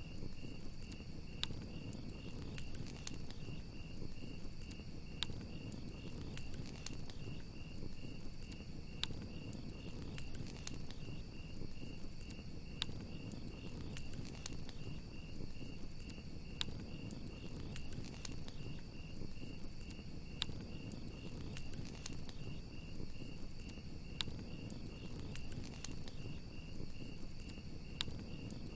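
Campfire crackling, with sharp pops scattered throughout over a low rumble of the flames, while crickets chirp on in a steady, evenly pulsing high trill.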